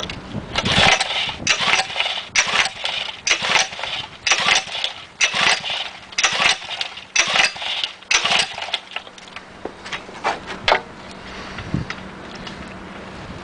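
JLO two-stroke stationary engine running with a loud, regular beat about once a second. Near the end the beat drops away and it settles to a quieter, steady run.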